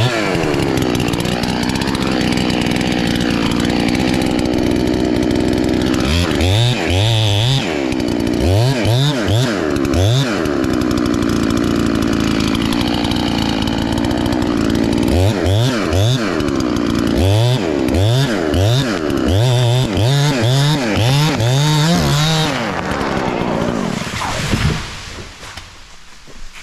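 Chainsaw cutting through an oak trunk during a felling cut, running steadily at full throttle, then revved up and down over and over from about six seconds in as the cut is worked. Near the end the saw drops back and the sound falls away.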